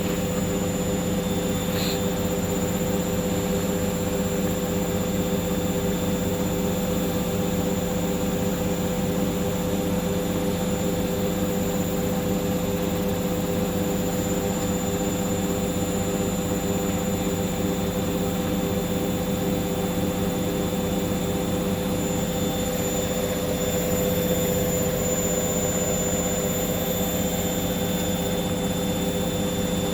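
Hoover washing machine spinning at high speed in its final 1400 rpm spin: a steady, unchanging motor whine over the turning drum.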